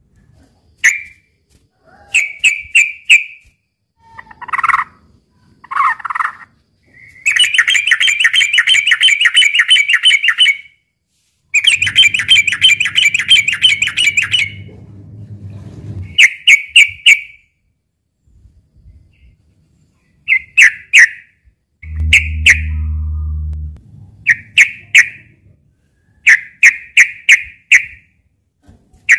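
Sooty-headed bulbul singing: short bursts of quick, bubbly notes repeated every second or two, with two longer rapid trills of about three seconds each near the middle. A low hum sounds for about two seconds about two-thirds of the way through.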